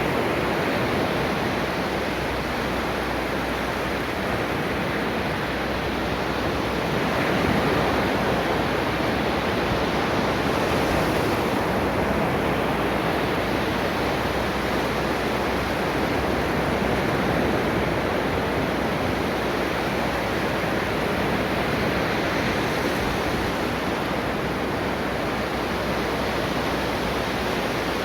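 Ocean waves washing onto a shore in a steady, unbroken wash, with gentle swells about a quarter of the way in and again a little later.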